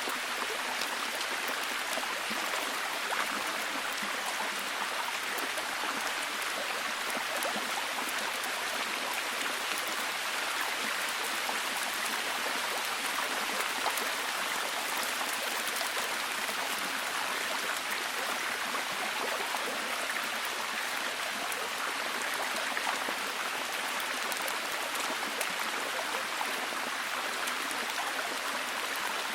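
Steady heavy rain: a dense, even hiss of falling rain with many small drop ticks throughout.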